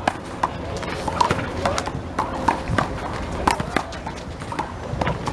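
Big blue rubber handball being struck by hand and bouncing off the wall and pavement during a rally: a string of sharp slaps, one or two a second, irregularly spaced.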